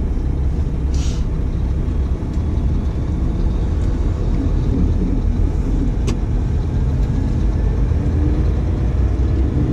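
Dump truck's diesel engine running with a steady low rumble while driving. A short hiss comes about a second in, and a single sharp click about six seconds in.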